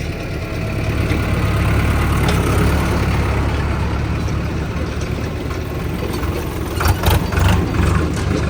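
Tractor diesel engine running steadily under light load, swelling slightly about a second or two in. A burst of sharp clattering knocks comes about seven seconds in.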